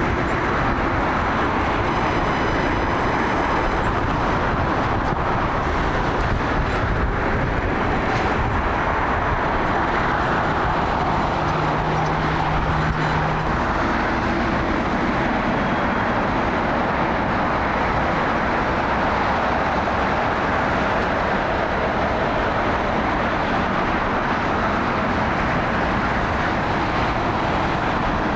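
Boeing 787 Dreamliner jet engines running, a steady jet noise with slow rising and falling sweeps in tone as the airliner moves past.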